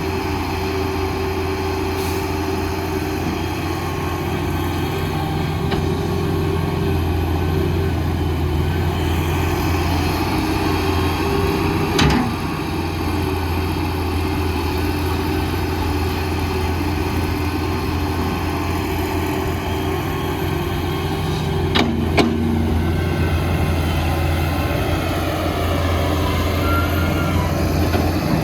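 Heavy diesel earthmoving machinery running steadily with a deep, constant engine hum. Two sharp metallic clanks stand out, about 12 and 22 seconds in.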